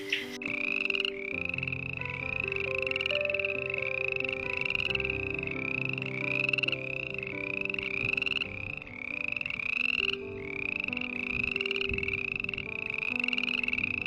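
Frog calling in a steady series of croaks, about two a second, each a short pulsed call rising slightly in pitch, over soft background music.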